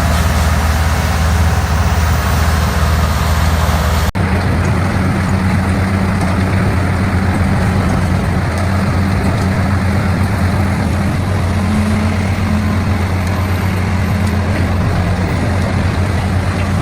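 A CBI horizontal wood grinder's big diesel engine runs steadily under load, with a deep drone and grinding noise from the wood being processed. The sound changes abruptly about four seconds in, at a cut to other grinding footage.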